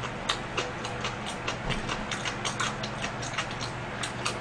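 Close-miked chewing: a quick, uneven run of small wet clicks and smacks from the mouth, several a second.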